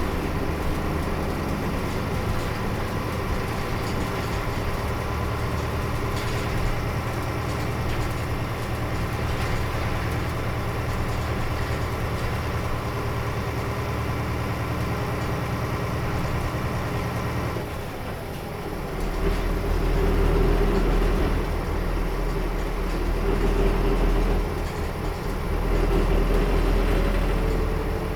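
Inside a Nissan Diesel KL-UA452KAN city bus, its diesel engine running steadily. About two-thirds of the way through the sound changes to a deeper, heavier rumble that grows louder three times.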